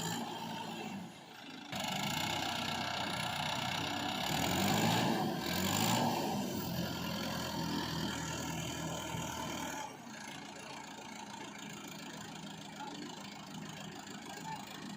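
Tractor diesel engine running under load, its pitch rising and falling around the middle, then running quieter in the last third.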